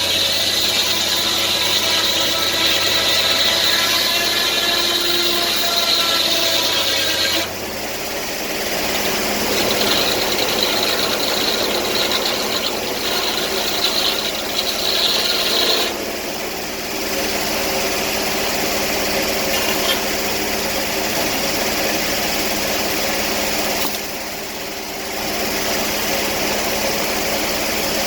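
Portable band sawmill running, its engine steady while the blade cuts through a log. A high whine over the engine drops away about seven seconds in, returns a couple of seconds later and stops again about halfway through.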